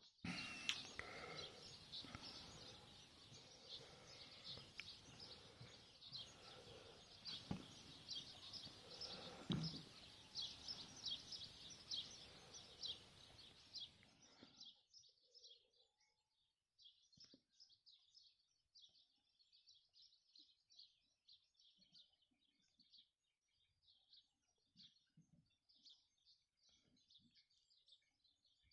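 Small birds chirping rapidly and repeatedly over a faint outdoor background hiss. About halfway through the background drops away and the chirping carries on more faintly.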